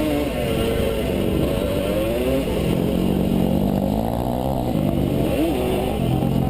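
Motocross bike engine revving, its pitch rising and falling repeatedly with the throttle, with a quick rise and drop about five seconds in.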